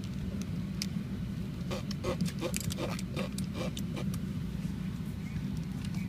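A person making a quick run of about nine short, funny vocal noises, about four a second, starting about two seconds in. Underneath is the steady low drone of an airliner cabin.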